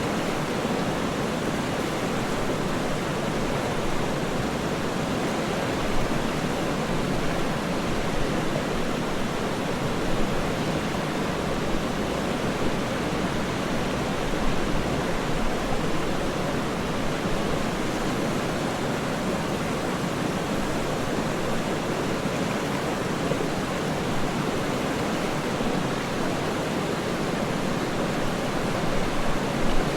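Waterfall rushing steadily, an even, unbroken noise with most of its weight in the low and middle range and only small brief swells.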